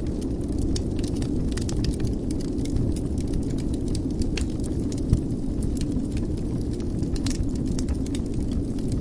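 Wood fire burning in a fireplace: a steady low rumble of flames with scattered crackles and small pops, one sharper pop about five seconds in.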